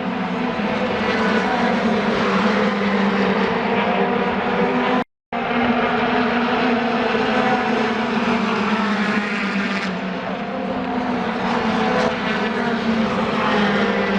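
Steady drone of an aircraft engine overhead: a low, even hum with higher tones above it and no rise or fall in pitch. It cuts out abruptly for a split second about five seconds in, then carries on the same.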